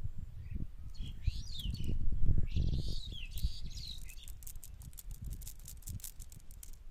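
A bird calling: a few quick, falling chirps, then a run of rapid clicks that fades, over low thumping and rumbling.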